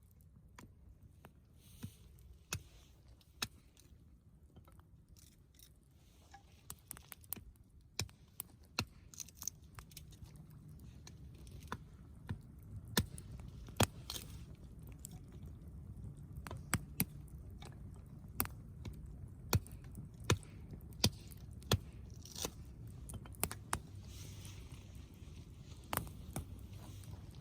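Campfire crackling: irregular sharp pops and snaps from burning wood, over a steady low rumble.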